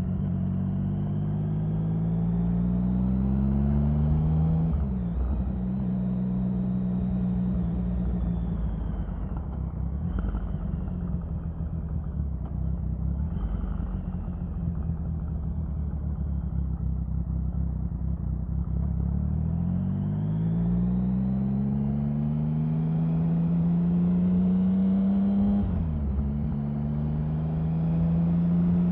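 Triumph Sprint 1050's three-cylinder engine running under way, its pitch climbing and then dipping sharply with a shift about five seconds in. It then holds steady and eases lower, before climbing again to another sharp dip a few seconds before the end.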